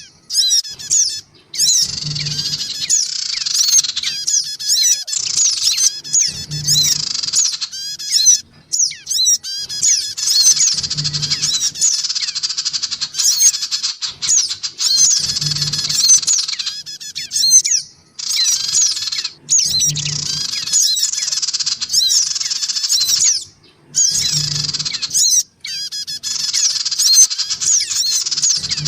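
Recorded lure calls of little spiderhunters, busy rapid high-pitched chattering and squeaky chirps that run almost without a break, a pikat track meant to draw small birds in. A low thump repeats about every four and a half seconds under the calls.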